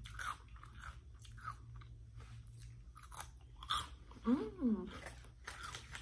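Close-up crunching of Flamin' Hot Cheetos being chewed, a run of crisp crunches. About four seconds in, a brief hummed vocal sound.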